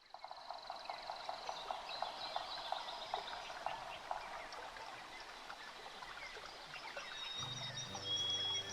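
Forest birdsong: a high trill at first, then many short chirping calls repeated in quick succession. Music fades in with low sustained notes near the end.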